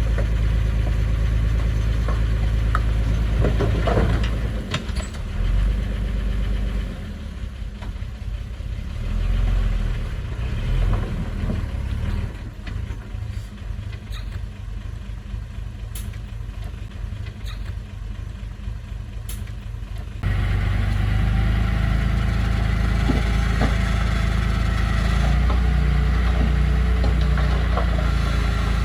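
Heavy construction machinery's engine running steadily: loud at first, quieter through the middle, then suddenly louder again about two-thirds of the way through.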